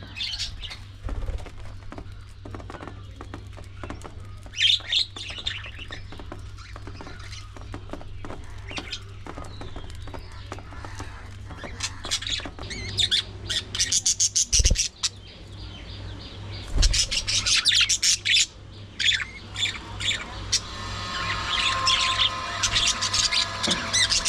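A flock of budgerigars chirping and chattering, with many short high calls coming in bursts and flurries.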